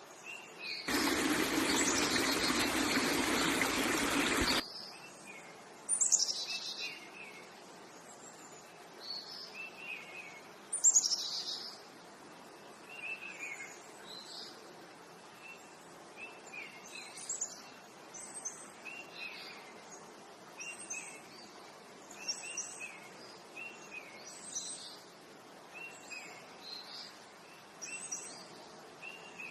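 Birds calling outdoors: short chirps repeat every second or so, with two louder downward-sweeping calls. About a second in, a loud rushing noise starts and cuts off abruptly nearly four seconds later.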